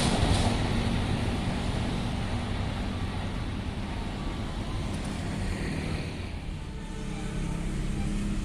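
Rumble of a passing express train fading away as it recedes, the high-pitched part dying first, leaving a low steady drone near the end.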